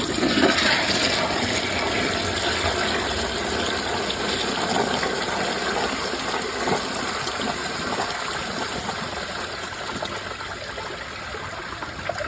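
A Glacier Bay Power Flush toilet on a mid tank flushing: a steady rush of water into the bowl through only two rim jets, the others blocked. It is strongest just after the start and eases slightly toward the end.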